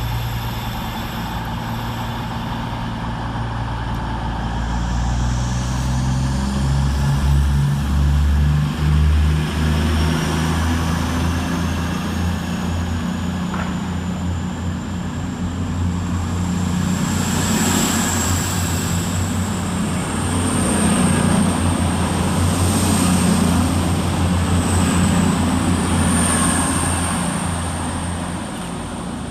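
Two coupled Class 220 Voyager diesel-electric units pulling away: their underfloor Cummins diesel engines idle, then rev up about six seconds in. A rising high whine and rolling wheel noise follow as the train gathers speed, and the sound fades near the end.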